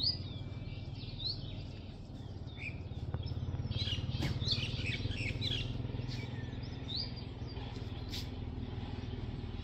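Small birds chirping and twittering in short scattered calls, busiest around the middle, over a steady low hum.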